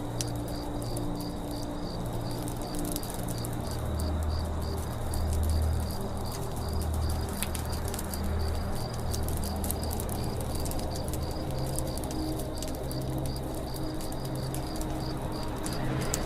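Campfire crackling with scattered sharp pops, over a forest background of doves cooing in low phrases and a high chirp repeating about three times a second.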